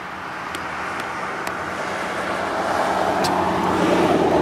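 A car passing on a nearby road, its tyre and engine noise growing louder toward the end. A few faint sharp taps sound over it.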